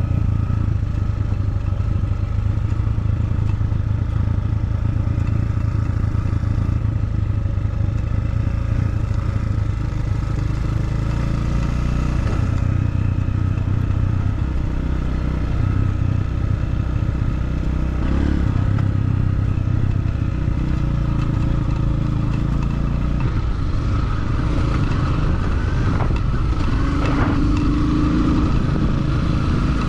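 Motorcycle engine running steadily while riding on a dirt road, with wind and road noise; the engine note shifts a few times, about halfway through and again near the end.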